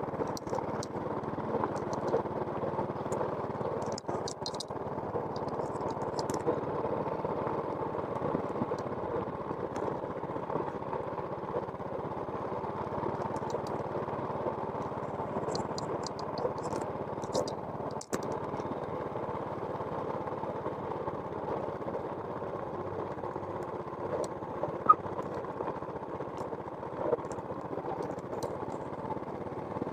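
An engine running steadily, with scattered faint high ticks.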